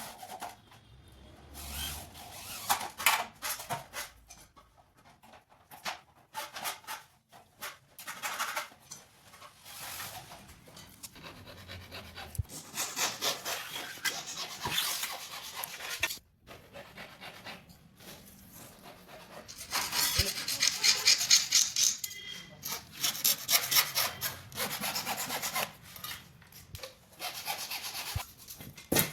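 Scraping and rasping strokes of hand work on aluminium fittings, coming in bursts of a few seconds with short pauses between them. Around two-thirds of the way through there is a run of fast, even strokes.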